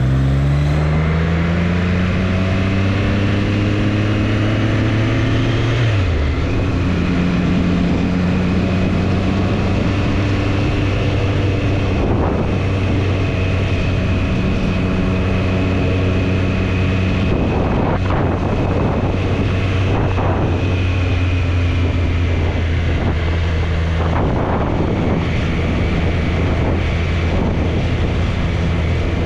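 Triumph Street Triple's inline three-cylinder engine pulling with rising revs, then an upshift about six seconds in that drops the revs, after which it cruises at a steady engine speed. Wind gusts across the microphone come and go in the second half.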